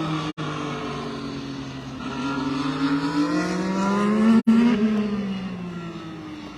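IndyCar 2.2-litre twin-turbo V6 running on track: the engine note drops, climbs again around the middle, then drops and fades away. The sound cuts out for an instant twice.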